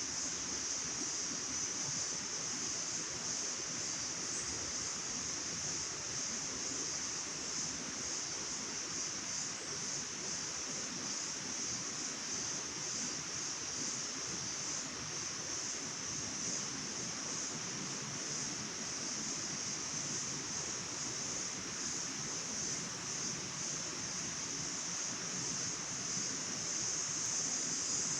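Forest nature ambience: a steady rush of flowing water with a continuous high-pitched drone over it.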